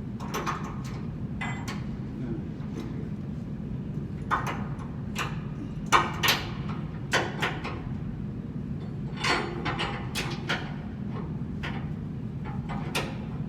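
Irregular sharp metal clanks and knocks of tools and parts during work on a blower's bearings, the loudest about six seconds in, over a steady low hum.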